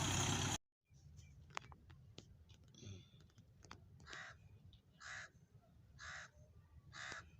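Loud engine noise cuts off suddenly within the first second. Then, against quiet background with a few faint clicks, a bird gives four calls about a second apart.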